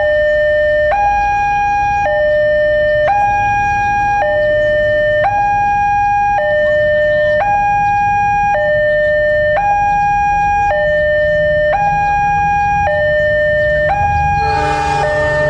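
Indonesian railroad crossing warning alarm sounding a two-tone hi-lo signal, switching between a higher and a lower tone about every second, to warn that a train is coming. Near the end a brief lower chord and a burst of hiss join in.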